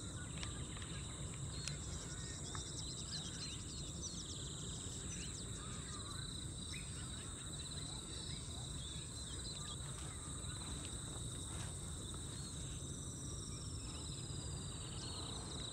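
Wetland ambience: a steady, high, droning insect chorus, like crickets, with scattered short bird calls over it and one long falling whistle near the end.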